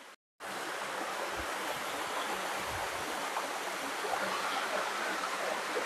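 Steady rush of falling water from a waterfall, coming in about half a second in after a brief dropout.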